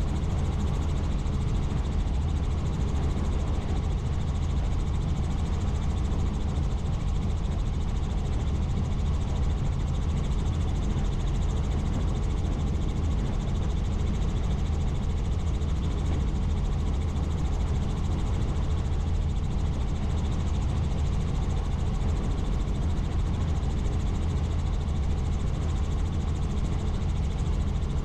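Helicopter in steady flight: a constant low drone of rotor and engine with even low tones and a rushing hiss above them.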